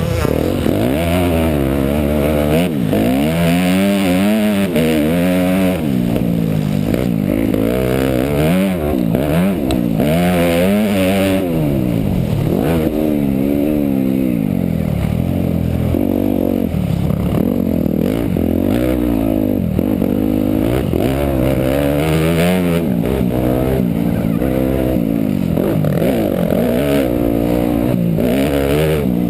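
Motocross dirt bike engine revving up and down over and over as the throttle is opened and shut through the track's corners and jumps, heard close up from a camera on the bike or rider.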